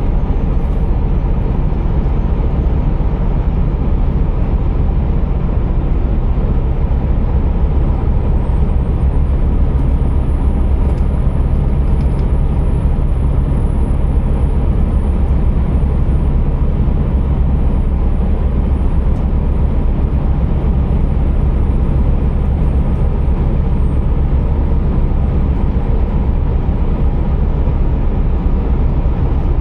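Steady, heavy drone of a Scania R480 truck's 13-litre inline-six diesel running under way with road noise, heard from the cab. A faint high whine rises slightly about eight seconds in and eases back down near the end.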